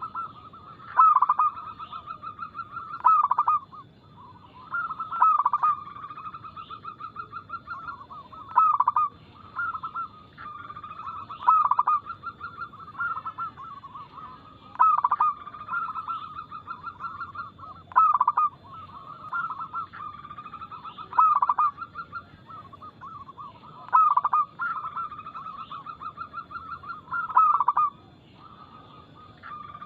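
Zebra dove (perkutut) cooing, a song phrase repeated about every three seconds. Each phrase is a rapid run of short notes with a few louder accented notes.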